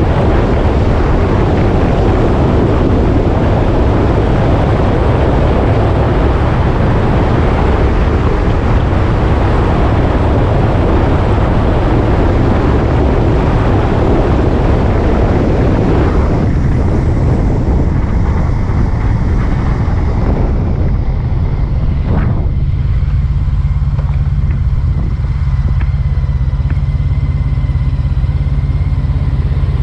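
Motorcycle engine running while riding, under heavy wind noise on the microphone. The wind noise drops away in two steps, about halfway and again about three-quarters through, leaving a steady low engine hum as the bike slows.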